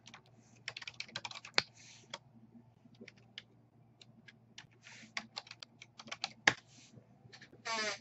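Irregular clicking of typing on a computer keyboard, in quick runs and single keystrokes, with a brief rising squeak near the end.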